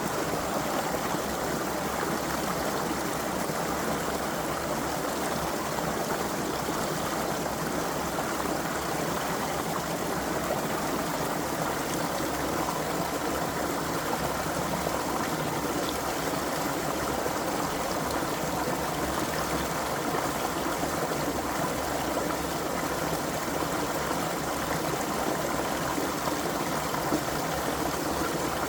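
Creek water flowing and trickling over rocks in a steady rush, with no break or change.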